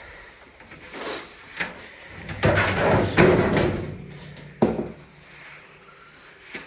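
Dryer parts being handled during disassembly: a few short scuffs, then a longer scraping and rattling of panel or drum parts being shifted, and one sharp knock near the middle.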